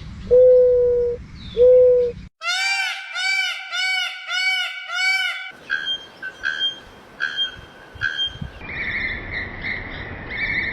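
A run of different bird calls, one after another: first steady low hoots, then a quick series of arching, overtone-rich calls, then repeated higher chirps over a background hiss.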